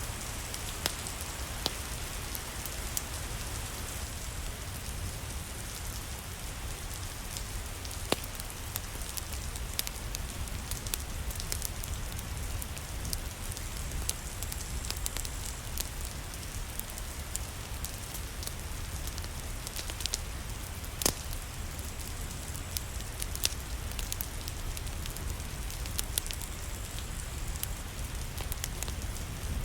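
Steady rain falling with a low rumble underneath, and a wood fire crackling, with sharp pops scattered through, the loudest about 8 and 21 seconds in.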